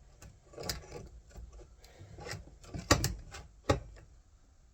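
Several sharp knocks and clatters of hard parts and tools being handled on a work surface during chainsaw repair, the loudest pair about three seconds in.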